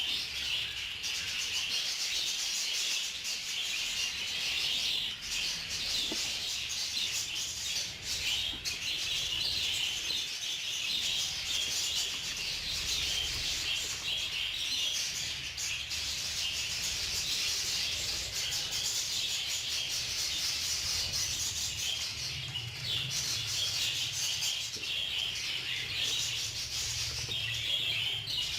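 A flock of budgerigars chirping and chattering non-stop, many birds at once, with a faint low hum underneath.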